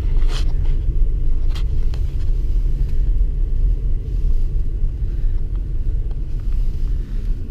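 Steady low rumble of a pickup truck's engine and road noise heard from inside the cab while driving, with a couple of faint short clicks in the first two seconds.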